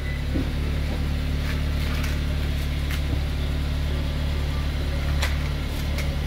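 A car engine idling steadily, a low even hum, with a few light clicks over it.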